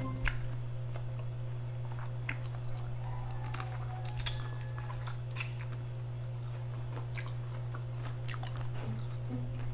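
Close-miked chewing on a shrimp head, with scattered small wet clicks, over a steady low hum.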